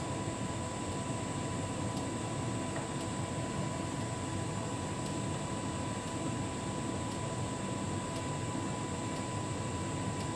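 Hotpoint heat pump tumble dryer running steadily in its cool-down phase: an even machine hum with a steady high-pitched tone over it and faint ticks about once a second.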